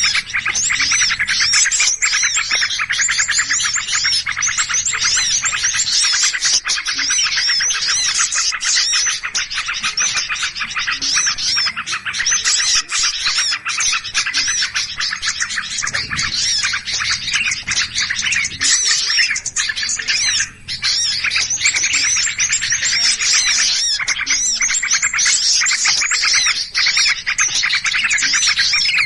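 Many small songbirds chirping and scolding all at once in a dense, unbroken chatter of rapid high calls. This is the agitated mobbing noise of a mixed flock, used as a bird-trapping lure call.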